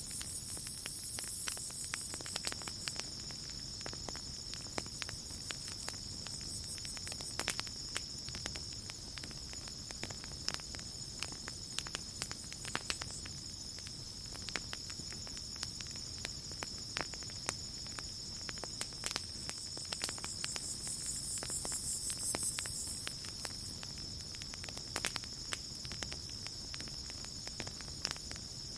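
Campfire crackling with sharp, irregular pops, over a steady high chorus of night insects. A higher pulsing trill swells in near the start and again about twenty seconds in.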